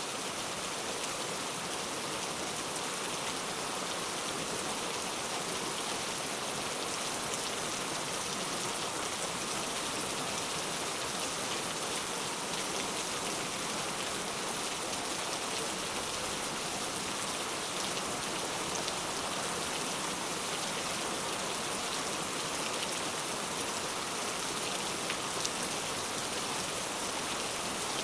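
Steady rain, a constant even hiss of falling drops with faint scattered patter.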